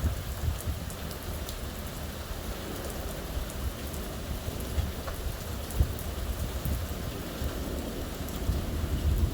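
Steady rain in a thunderstorm, with many small, sharp drop hits. A low rumble of thunder runs underneath and builds near the end.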